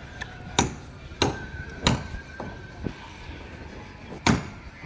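A series of about six sharp knocks or strikes, coming roughly every half second and then one more after a pause of over a second. A faint steady high tone runs under the first few strikes.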